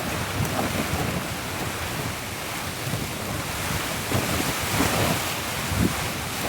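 Rain falling in gusty wind, the wind buffeting the microphone in irregular swells.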